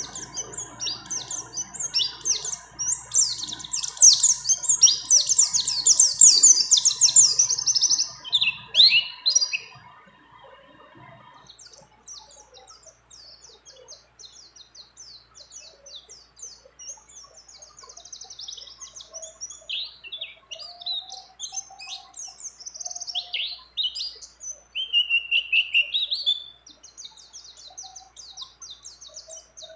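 White-eye (pleci) singing a long, fast run of high-pitched chirps and trills, loudest in the first eight seconds. After about eleven seconds a faint steady hum underneath stops, and the song goes on in sparser phrases.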